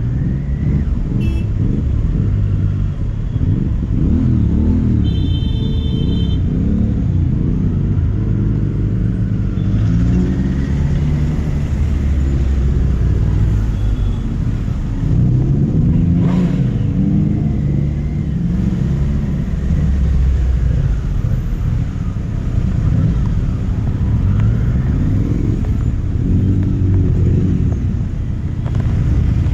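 Triumph Street Triple RS three-cylinder engine under way, its pitch repeatedly climbing as it accelerates and dropping back through gear changes and roll-offs, over a steady low rumble.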